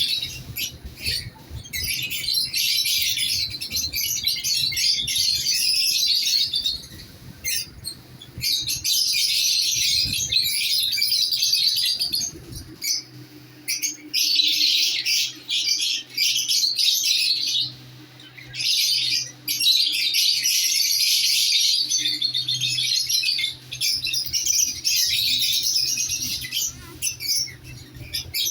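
Lovebirds chattering and squawking in long, rapid, high-pitched bouts with short pauses between them. A faint steady low hum comes in about halfway.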